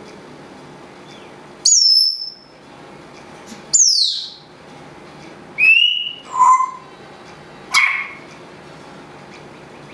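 African grey parrot whistling and calling: five separate loud whistled calls, one of them a long falling whistle about four seconds in.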